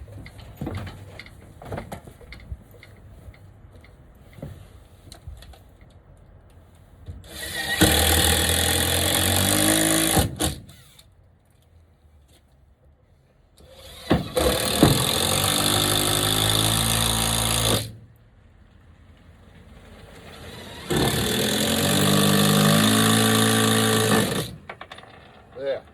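Power drill driving screws in three runs of about three seconds each, the motor pitch falling during each run as it loads up. Light knocks and handling noise before and between the runs.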